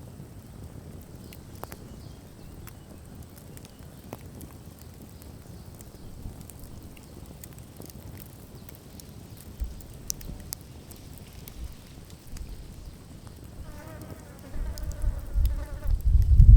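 A campfire burns quietly with scattered faint crackles. Near the end a flying insect buzzes past the microphone with a wavering hum, and a loud low rumble sets in.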